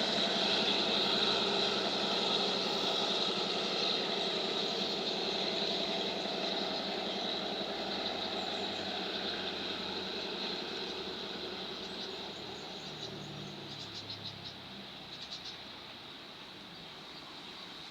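Departing train's running noise, fading steadily as it pulls away. Faint rapid chirping shows through near the end.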